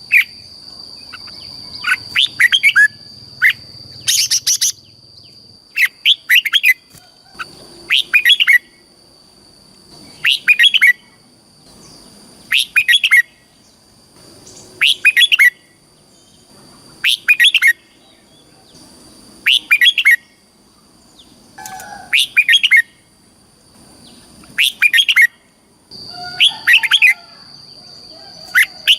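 Red-whiskered bulbul singing short phrases of bright, quick whistled notes, one phrase about every two seconds. A steady high-pitched whine runs underneath.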